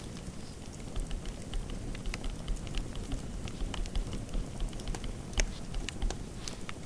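Fireplace fire crackling: many irregular sharp pops and ticks over a low, steady rumble.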